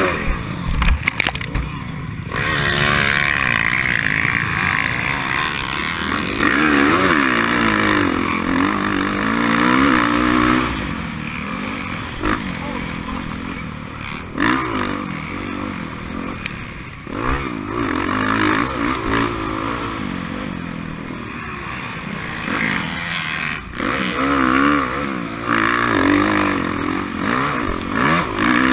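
Racing motorcycle engine repeatedly revving up and dropping back as the rider works the throttle and shifts, with noise and clattering knocks over it.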